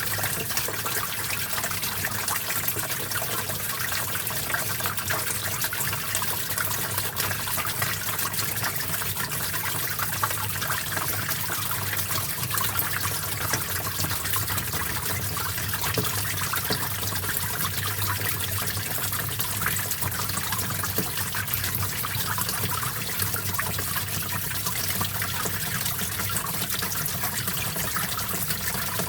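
Small stream flowing over rocks, a steady trickling and splashing that runs on without a break.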